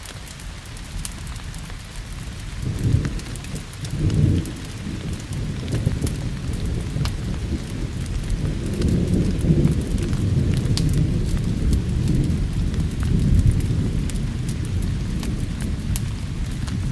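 Steady rain with thunder: two short low rumbles about three and four seconds in, then a longer rolling rumble from about halfway that slowly fades. Scattered sharp ticks sit over the rain hiss throughout.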